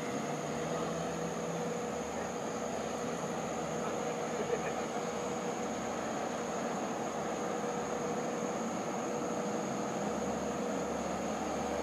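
Distant, steady rumble of an approaching Long Island Rail Road train led by a DM30AC diesel locomotive, growing a little louder near the end.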